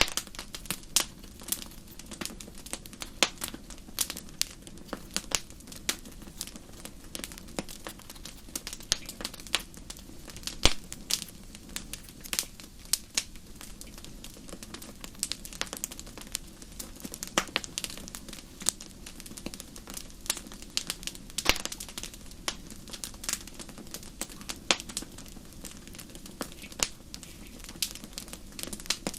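Wood fire crackling: irregular sharp pops and snaps, a few a second, over a steady low hum.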